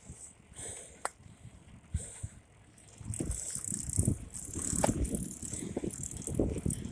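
Bicycle rattling as it is ridden, with a few sharp clicks at first and a louder, denser rattling from about three seconds in.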